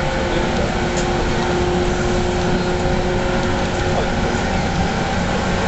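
JR Central 117 series electric train running, heard from inside the passenger car: a steady rumble of wheels on rail with a faint hum of the motors.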